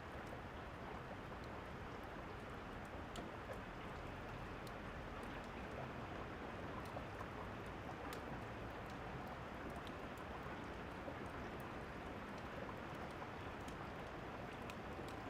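Steady rain falling, with the scattered sharp pops and crackles of a fireplace over it.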